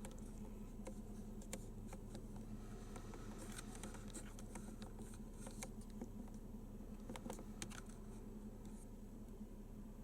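Faint scattered clicks and light tapping and handling noises over a low steady hum.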